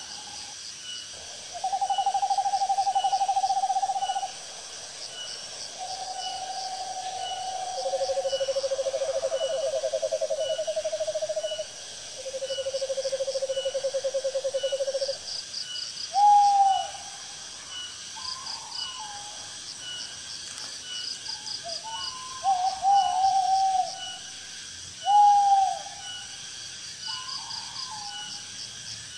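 Owls calling: long, even, trembling trills, each held two to four seconds, two of them at different pitches overlapping midway, then shorter wavering calls that fall in pitch. Insects chirp steadily in the background.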